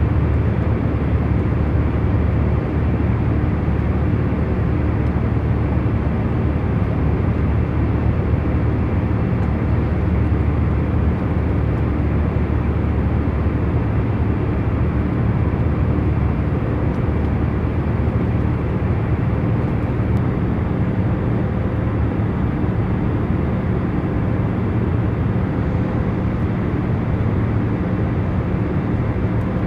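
Steady hum of an airliner's cabin in cruising flight: a constant low rumble of engine and air noise with faint steady hum tones, unchanging.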